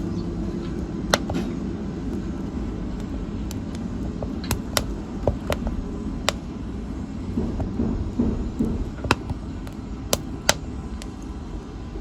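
Fire in a fireplace crackling, with scattered sharp pops over a steady low rumble of the flames.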